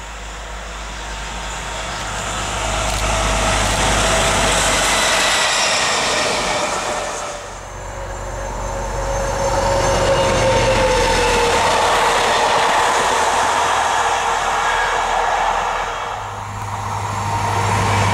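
Trains passing on a main line: the rumble of locomotive and wagons builds as they approach, with engine tones slowly falling in pitch as they go by. The sound dips briefly twice between loud passages.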